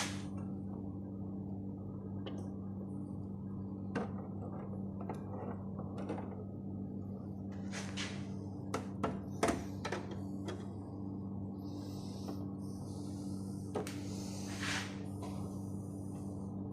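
Steady low electrical hum, with scattered sharp clicks and a few brief hisses late on.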